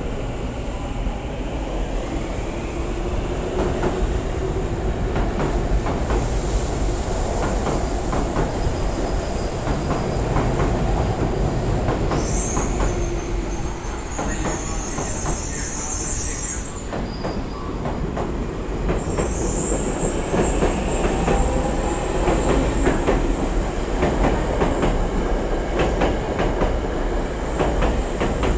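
Tobu 70000 series electric train running on the rails, a steady rumble with rail-joint clicks. Its wheels squeal high twice, for a few seconds each, about halfway through and again a few seconds later.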